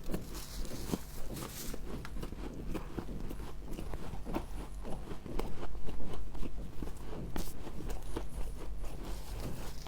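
Close-up crunching and chewing of humidifier frost in the mouth: a quick, continuous run of small crisp crunches, loudest a little past the middle.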